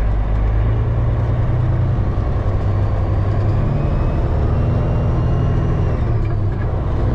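Semi truck's diesel engine running, heard from inside the cab: a steady low drone whose pitch steps a few times, with a faint high whine above it.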